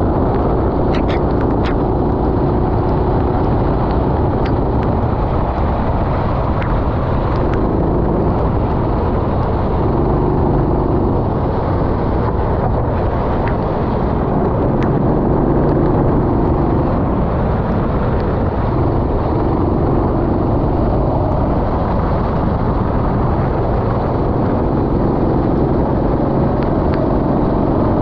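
Go-kart engine heard from on board, its pitch rising and falling repeatedly as the kart accelerates and lifts through corners, over a steady low rumble.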